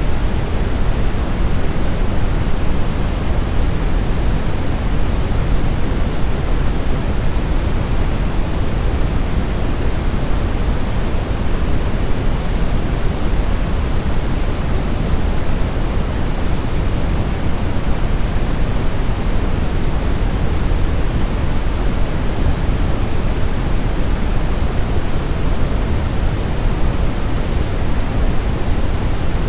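Steady synthetic brown noise: a deep, even rushing hiss, strongest in the low end and fading toward the highs, unchanging throughout.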